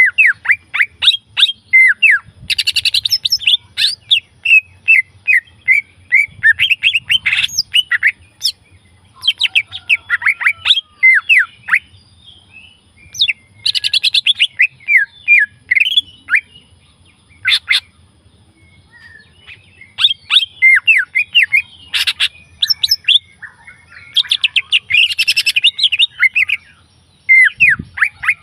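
Green leafbird (cica ijo) singing: bouts of quick, varied chirps and down-slurred whistles lasting several seconds each, broken by short pauses.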